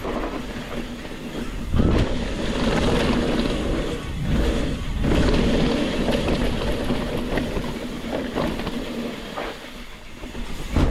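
Mountain bike descending a dirt trail: wind rushing over the camera microphone and tyres rolling over dirt and rock, surging louder twice.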